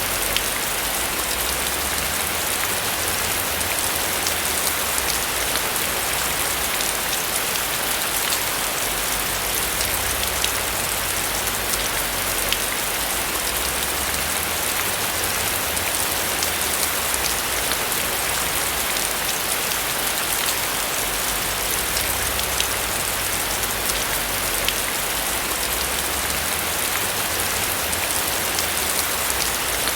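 Steady rain falling on a roof, an even hiss with many individual drops ticking on it.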